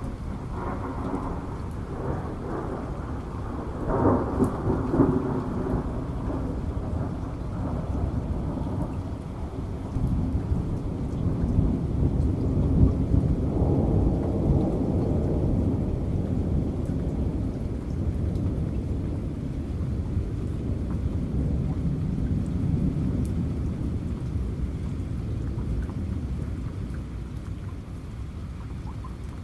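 A thunderstorm: thunder rumbling over steady rain, with a louder clap about four seconds in, then a long low rumble that swells and slowly dies away toward the end.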